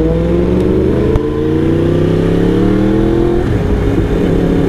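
Motorcycle engine accelerating through the gears. The pitch drops at an upshift about a third of a second in, rises steadily for about three seconds, then drops at another shift and holds steady.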